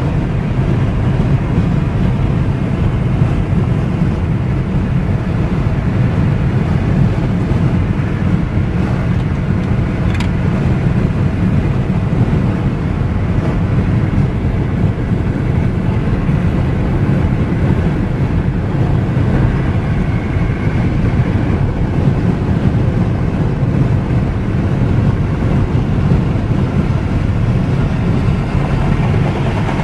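Steady low rumble of road and engine noise from a car driving at highway speed, heard from inside the car.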